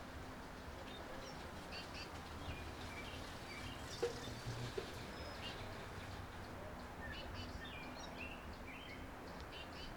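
Faint, scattered short chirps of small songbirds at a backyard feeder over a steady low background hum, with a single soft tap about four seconds in.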